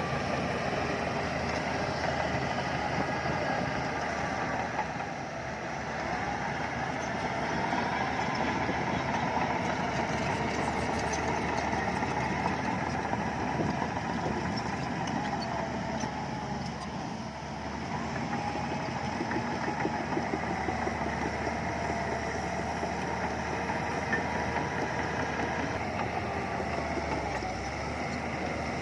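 Bulldozer's diesel engine running steadily under work, easing off briefly about five seconds in and again past the middle.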